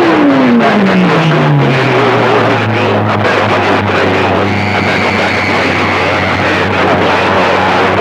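CB radio channel noise between transmissions: a whistle falls steeply in pitch and settles into a low steady hum within the first two seconds, over dense jumbled static, with a thin high tone added from about halfway to near the end.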